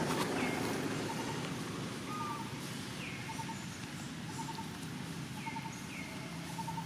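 Bird calling: short runs of two to four quick pips, repeated about once a second, with a few brief falling chirps, over a steady low rumble.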